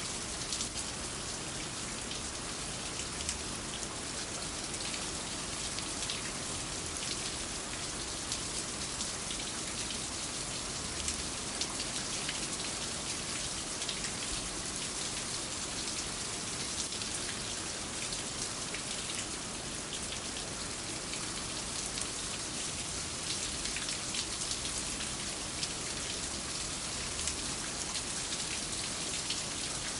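Steady rain falling, with many small drops ticking all through it.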